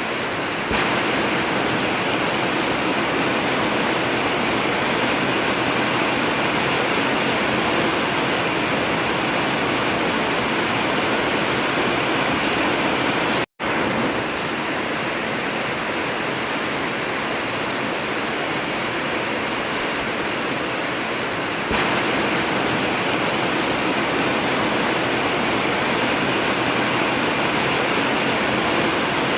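Heavy rain pouring steadily on an old corrugated tin roof, a dense even hiss. The sound cuts out for a split second about halfway through, and grows slightly louder twice.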